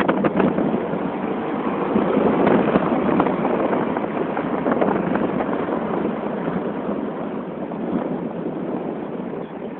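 Wind rushing over a phone's microphone while riding, a steady loud rush that slowly eases, with a few knocks right at the start.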